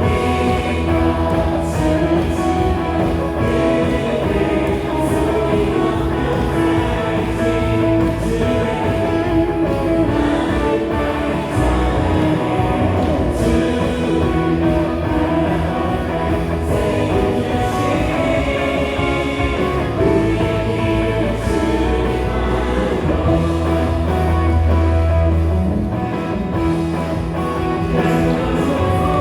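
Live worship band playing a praise song: drum kit, bass guitar, electric guitar and keyboard together, with a steady beat and a strong bass line.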